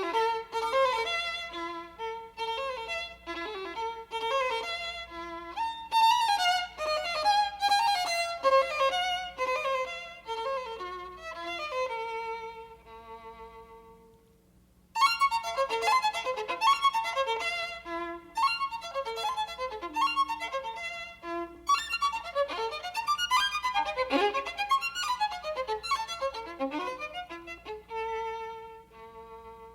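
Background music led by a violin playing a melody; it fades out about halfway and then starts again.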